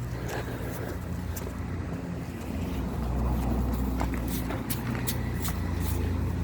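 Lawn mower engine running steadily, growing louder about two and a half seconds in, with several sharp clicks in the second half.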